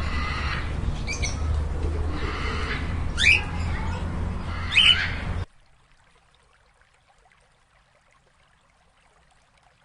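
Three short, rising bird squawks over a steady low hum and background noise, cut off abruptly after about five and a half seconds, followed by near silence.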